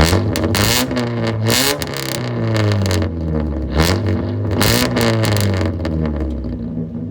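Warmed-up car engine with a straight-piped exhaust, muffler removed, being revved repeatedly: the pitch climbs and drops back several times in quick blips, then eases back down near the end.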